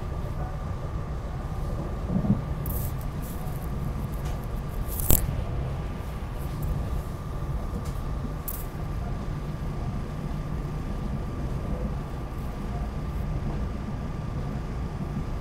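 Inside a SEPTA regional rail passenger car under way: a steady low rumble from the wheels and running gear with a faint steady whine. A dull thump comes about two seconds in, a sharp knock about five seconds in, and a few short high-pitched noises.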